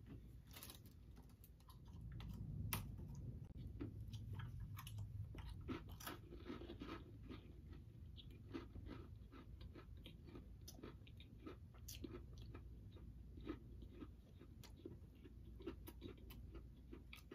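A person biting and chewing a crunchy cookie: faint, irregular crunches and crackles.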